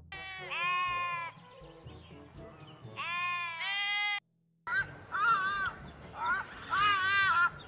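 Domestic sheep bleating, two long wavering bleats a few seconds apart. After a sudden break, a series of shorter wobbling calls from a different animal follows, over a faint music bed.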